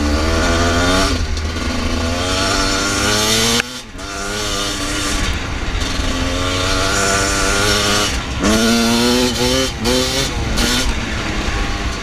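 Husqvarna TE300i two-stroke dirt bike engine revving hard under acceleration, pitch climbing again and again as it pulls through the gears. About four seconds in the throttle is snapped shut and the sound drops sharply for a moment before the revs pick up again.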